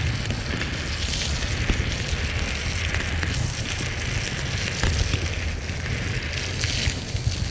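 Riding noise from a small Honda MSX125 motorcycle in the rain: rushing wind and rain spray on the microphone over a low engine rumble, steady throughout with a slight drop near the end.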